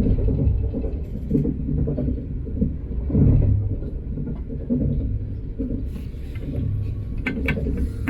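Train running at speed, heard from on board as a steady low rumble, with a few sharp knocks near the end.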